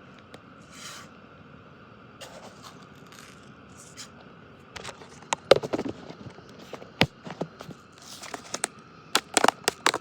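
Scattered sharp clicks and knocks, a few at first and then a quick cluster in the second half, over a faint steady hiss.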